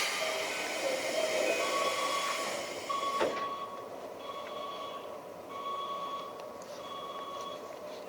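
A sharp click, a hiss lasting about three seconds that ends in a second click, then a repeating electronic beep about once a second, heard from inside a train car.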